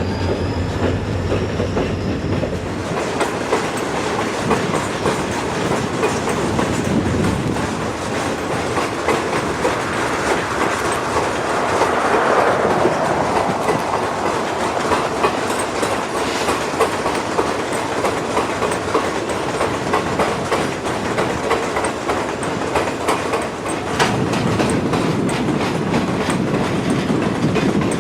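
Taconite ore cars of a freight train rolling past, their wheels clicking steadily over rail joints. A thin wheel squeal fades out in the first couple of seconds.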